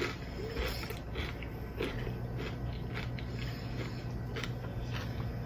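Crunchy chewing of Takis rolled tortilla chips, a string of irregular short crunches. A low steady hum comes in about two seconds in.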